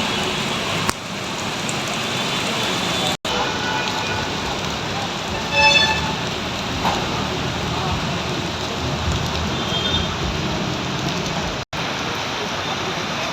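Steady hiss of heavy rain falling. The sound drops out for an instant twice, and a brief loud pitched tone stands out about halfway through.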